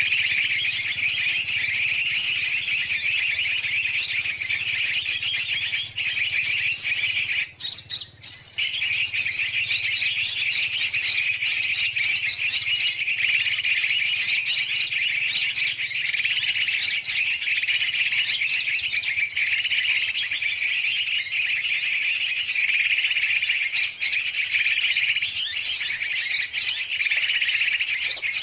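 Bird-lure recording of many birds chirping and calling noisily all at once, a mix of big and small birds' voices meant to draw birds in. The dense chatter drops out for under a second about eight seconds in.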